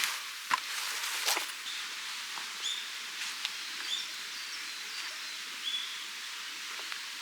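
Short, high, flat bird calls repeating about once a second over a steady outdoor hiss, with two sharp snaps or cracks in the first second and a half.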